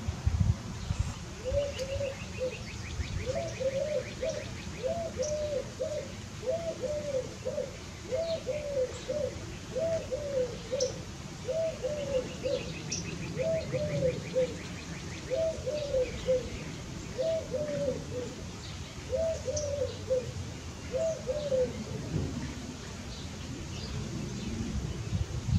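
Low bird calls: a phrase of two or three notes repeated about every two seconds, stopping near the end, with faint higher chirps and short trills from other birds.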